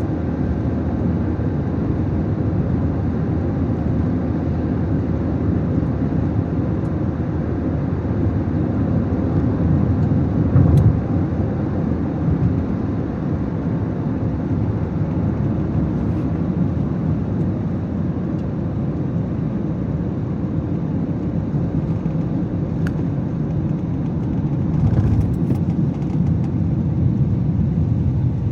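A car being driven: a steady low engine and road rumble, swelling briefly about eleven seconds in, with a few faint clicks.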